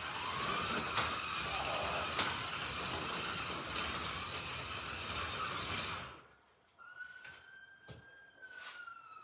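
Slot.it 1:32 slot cars running on the track, their small electric motors whining over the hiss and rattle of the cars on the plastic track. The noise stops suddenly about six seconds in. Then a single high whine sets in, holds, and slowly falls in pitch.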